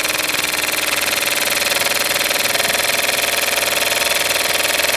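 Small homemade steam engine running steadily with a fast, even mechanical beat.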